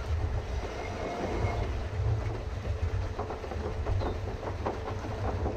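Pedal boat under way: a steady low rumble with a run of rattling clicks and knocks from the pedal and paddle mechanism, thickest after about three seconds.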